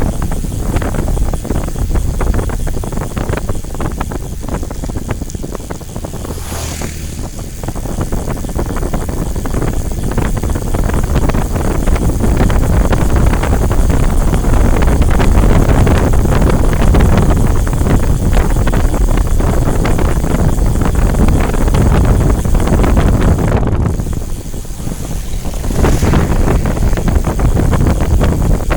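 Heavy wind buffeting the microphone, a dense low rumble that eases off for a few seconds about a quarter of the way in, then builds again and dips briefly near the end.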